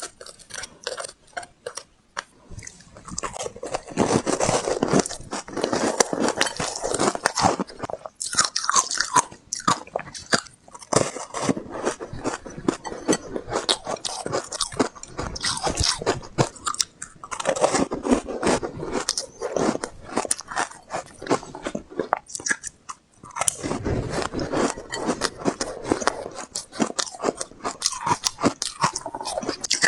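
Close-miked biting and chewing of refrozen honeycomb ice dipped in matcha and green barley powder: dense runs of crisp crunching and crackling, with short pauses between bites.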